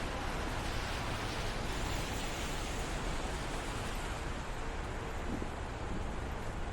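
Steady hiss of a wet city street in the rain: tyres of passing traffic on wet pavement and falling rain, over a low rumble.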